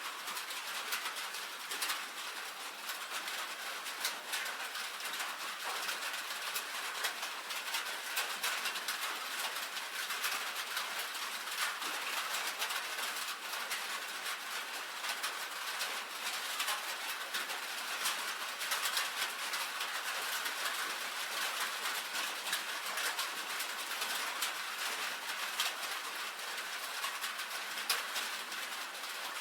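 Rain pattering steadily on a tin roof: a dense, even stream of fine drop ticks on the metal.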